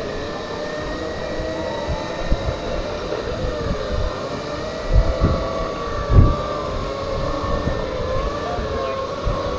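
Segway personal transporters being ridden, their motors and gearboxes giving a steady multi-note whine that drifts a little in pitch with speed. There is a rumbling low noise, and a couple of low thumps about five and six seconds in.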